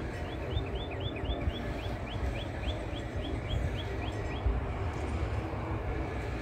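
A songbird singing a fast run of repeated slurred chirps, about three or four a second, that stops a little over four seconds in. Under it runs a steady low outdoor rumble.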